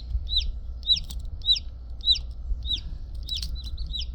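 Newly hatched chicks peeping: short, high calls that each slide downward, about two a second, crowding together near the end.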